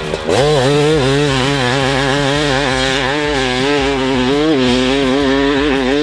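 A two-stroke dirt bike engine, the 1996 Kawasaki KX250's, running. Its revs climb sharply right at the start, then hold high with a quick, rhythmic waver in pitch, dropping away at the end.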